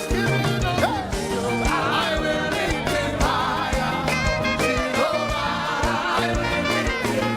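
Live gospel praise music: singing voices over a band with a steady drum beat.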